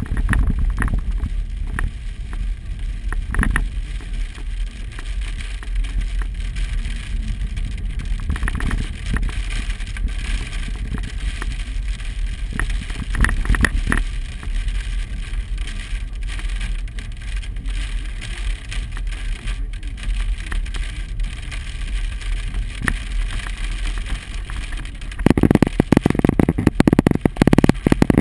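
Hailstones pelting a vehicle's body and windshield in a constant patter of sharp clicks, over a low rumble of the vehicle on the road. Near the end the hail suddenly gets much louder.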